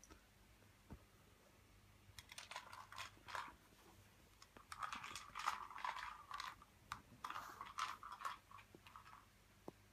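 A cat crunching dry treats: irregular bursts of crisp crackling that start about two seconds in.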